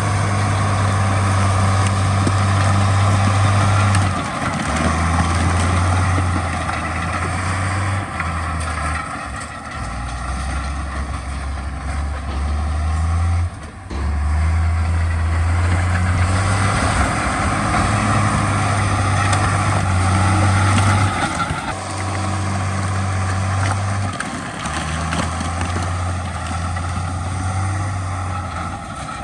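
Heavy diesel earthmoving machinery running under load, its deep engine note shifting up and down every few seconds, with a brief dip in the middle.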